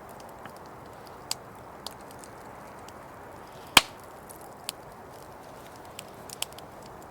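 Wood crackling and popping in a campfire: scattered sharp snaps, with one loud crack about four seconds in, over a steady low hiss.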